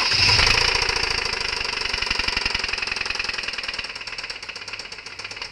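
Ford Puma engine running with a rapid, heavy metallic knocking that fades steadily: the sound of a blown engine.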